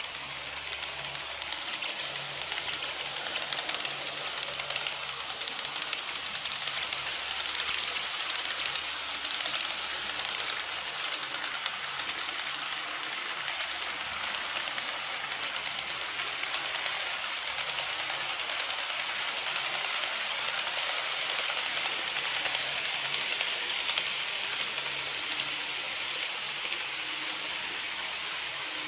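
Model train running on its track: a steady, rapid clatter of fine clicks from the small wheels rolling over the rail joints, with a high-pitched hiss of running noise.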